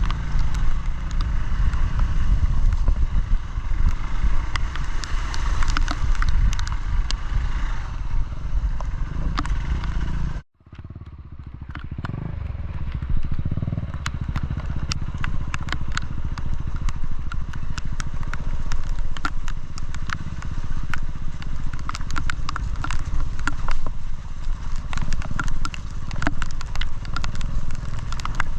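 Off-road motorcycle engine running along a trail, with many sharp clicks and clatters of stones and gravel; the sound drops out briefly about ten seconds in.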